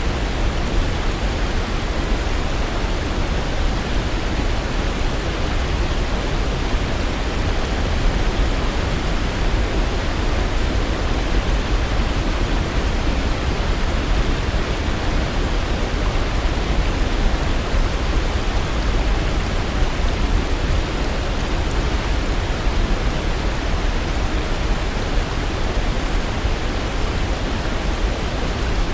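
Waterfall: a steady, unchanging rush of falling water, heaviest in the low end.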